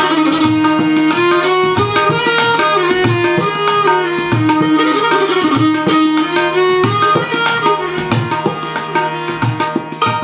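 Hindustani classical instrumental music: a melody instrument sliding between held notes over a steady drone, accompanied by regular tabla strokes.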